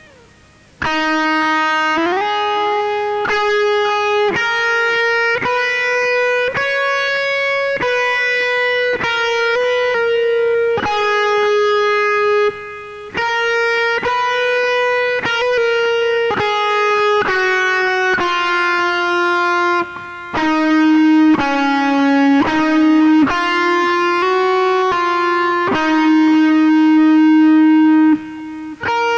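Lead guitar playing a single-note solo melody in E-flat minor, held notes joined by slides, in phrases with short breaks between them.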